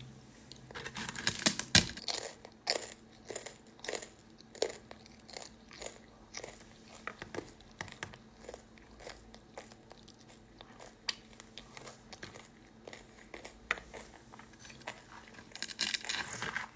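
A person chewing and biting food up close, with irregular wet smacks and small crunches.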